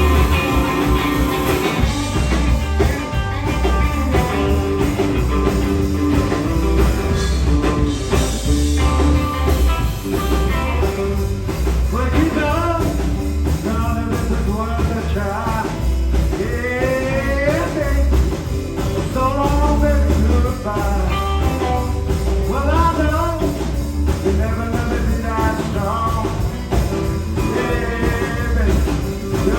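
Live blues-rock trio of electric guitar, bass guitar and drums playing loudly, with a wavering lead line, sung or on guitar, over the heavy bass from about twelve seconds in.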